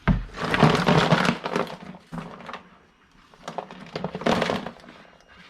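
Scrap items being handled and rummaged through, clattering and rustling in two busy bursts: a longer one at the start and a shorter one past the middle.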